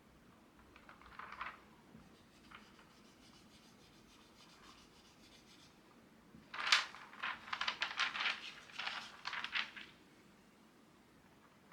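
Faint scattered noises, then about three seconds of scratching and rustling past the middle.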